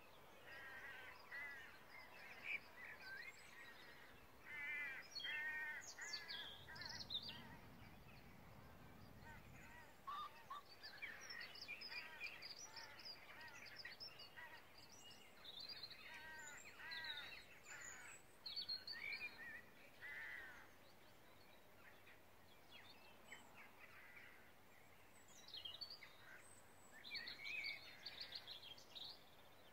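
Faint birdsong: several small birds giving clusters of short, repeated chirping notes, on and off throughout.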